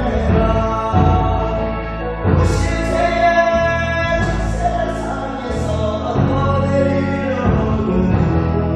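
A song with sung vocals, held notes over a steady instrumental backing.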